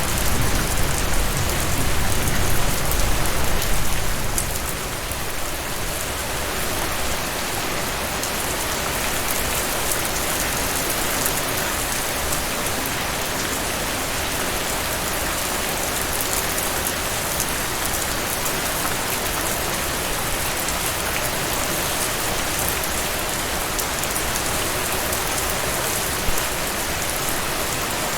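Heavy rain falling steadily as a dense, even hiss of drops. A low rumble underneath eases off about four seconds in.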